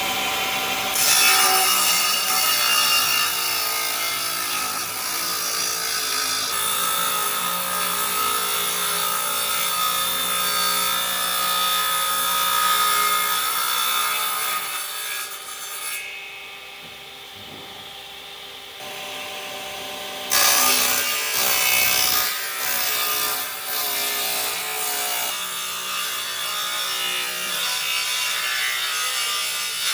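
A power tool cutting or grinding wood, with a steady motor whine over the noise of the cut. It drops away for a few seconds past the middle, then comes back loud.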